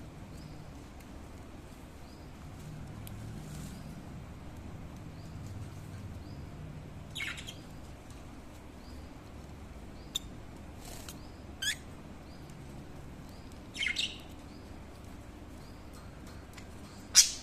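Budgerigars giving a few short, scattered chirps, the loudest near the end, over a low steady background hum.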